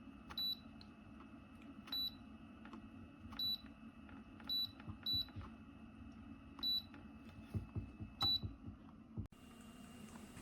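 Humidifier control panel beeping as its buttons are pressed: seven short high beeps at uneven gaps of one to two seconds, with faint clicks in between. The sound drops out abruptly about a second before the end.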